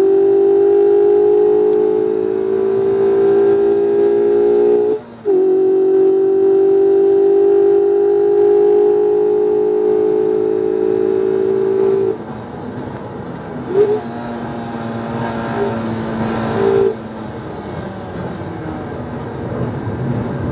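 2019 Mazda MX-5 RF's 2.0-litre four-cylinder heard from inside the cabin, pulling hard with its pitch climbing steadily and a brief cut for an upshift about five seconds in. About twelve seconds in it drops away as the driver lifts for a corner. Three short rev blips follow for downshifts, then a lower rumble until the engine picks up again right at the end.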